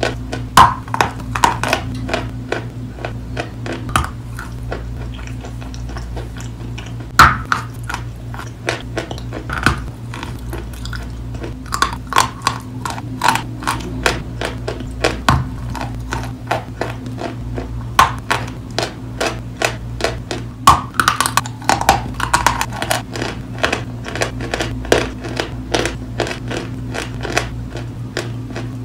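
Close-miked chewing of wet chalk coated with paste: an irregular stream of sharp, crisp crunches and clicks, several a second, over a steady low hum.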